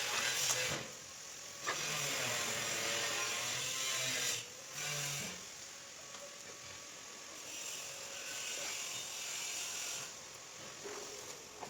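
Grouting tools working on tiles: rubbing and scraping across the tiled surface in several strokes, the longest about two and a half seconds, with a quieter stroke near the end.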